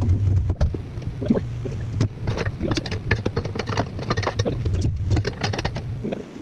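Rapid irregular knocks, clicks and rattles over a steady low rumble.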